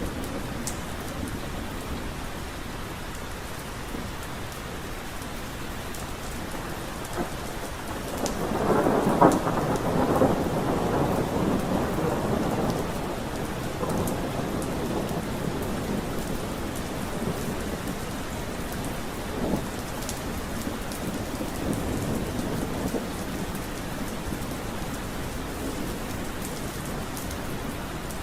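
Steady rain falling, with a roll of thunder that swells up about a third of the way in and fades over several seconds.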